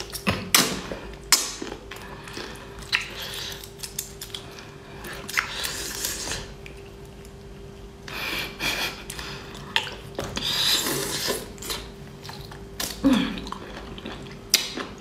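Close-miked wet eating sounds: biting, sucking and chewing on a sauce-covered raw sea cucumber, with irregular smacks and clicks. A faint steady hum runs underneath.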